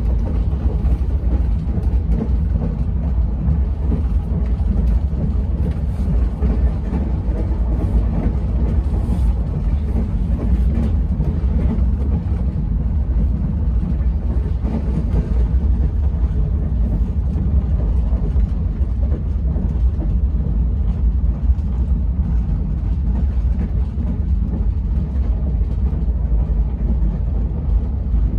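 Steady low rumble of an express train running at speed, heard from inside a closed, air-conditioned passenger coach: the wheels running on the rails.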